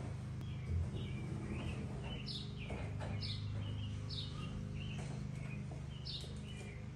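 A small bird chirping over and over, short falling chirps about once a second, over a steady low hum, with a single low thump about a second in.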